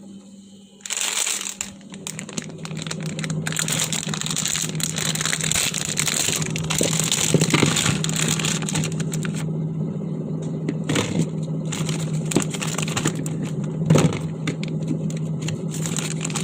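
Continuous crinkling and crushing noise with many sharp crackles, over a steady low hum.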